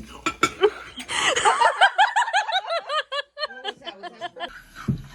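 A person laughing: a quick run of rapid 'ha' pulses lasting about two seconds, with a few short clicks and knocks around it.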